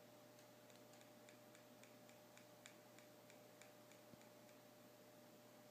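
Faint, quick clicks of a small LED-controller remote's button being pressed over and over, about four a second, stepping the color-change speed down; the clicks stop about four and a half seconds in. A faint steady hum lies underneath.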